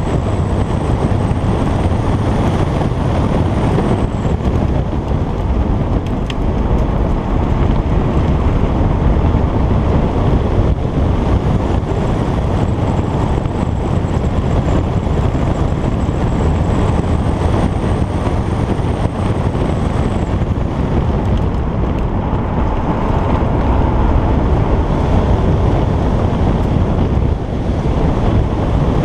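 Alfa Romeo Giulietta Quadrifoglio Verde with its stock exhaust and 1750 turbocharged four-cylinder engine, driving on the road, with wind noise on the microphone. A faint high whistle comes and goes over the steady engine and road noise.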